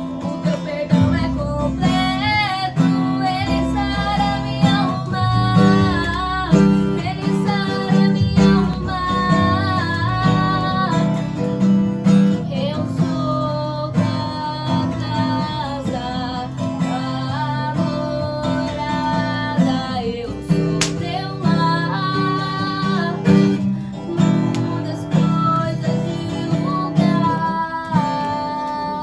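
Acoustic guitar music: strummed chords under a wavering melody line, running continuously.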